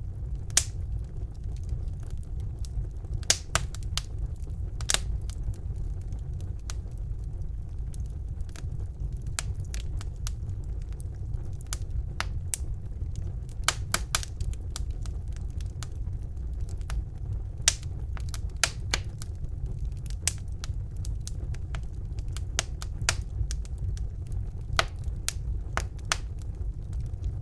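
Wood fire burning in a fireplace: a steady low rumble of flames with irregular sharp crackles and pops from the burning logs, several each second.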